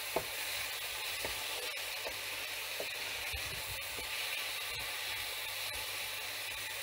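Chopped vegetables sizzling steadily as they fry in a non-stick pan. A wooden spatula stirs them, giving a few light taps and scrapes.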